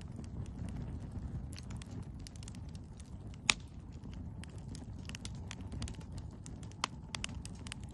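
Firewood in a campfire crackling, with scattered small snaps and a sharp loud pop about three and a half seconds in and another near the end, over a low steady rumble.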